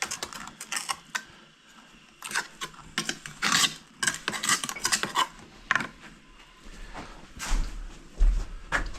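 Hand masonry tools scraping and clinking against firebrick and fireclay mortar: irregular short scrapes and taps of stove-lining work, with a low thump about eight seconds in.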